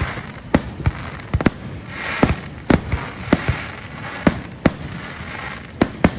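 Aerial fireworks going off in a quick, irregular run of about a dozen sharp booming bangs, with a crackling hiss between them.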